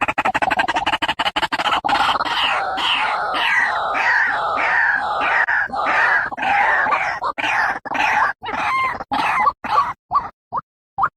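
White-breasted waterhen (ruak-ruak) calling: a rapid stuttering series that runs into loud repeated gliding notes, about two a second, which break up into shorter, more widely spaced notes near the end and stop just before it ends.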